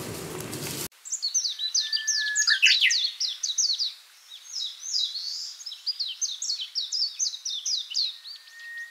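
Songbird singing: quick runs of high chirps, each sweeping downward, broken by a couple of longer level whistles. It starts abruptly about a second in, replacing a steady background hiss.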